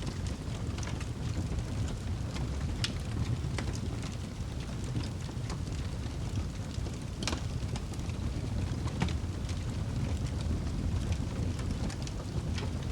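Wood fire burning in a fireplace: a steady low roar of flames with scattered crackles and pops from the burning wood, the sharpest pop about seven seconds in.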